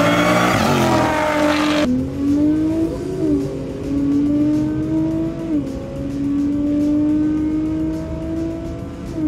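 A Jeep Grand Cherokee Trackhawk and another car launch hard from a standstill at full throttle. Then one car's engine is heard from inside its cabin as it accelerates, its pitch creeping up and dropping back at two upshifts.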